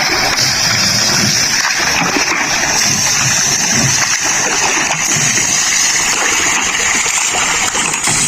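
Water splashing and gushing in a steady rush while a tractor is washed in a river.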